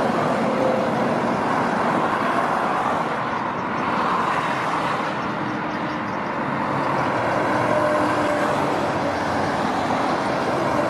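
Heavy truck engine running with steady road and traffic noise.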